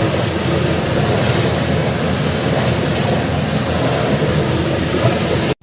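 Fishing boat under way: a steady engine rumble mixed with the rush of water and wind.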